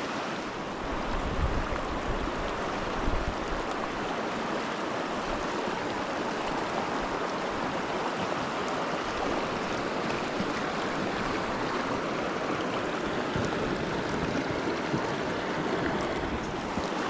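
Rushing water of a mountain trout stream, a steady even wash, with a brief low rumble in the first couple of seconds.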